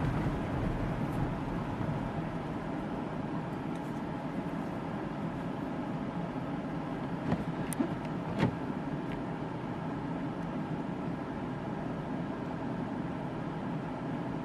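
Steady road and engine noise heard inside a car driving on snow-covered streets, with a few short sharp clicks a little past halfway.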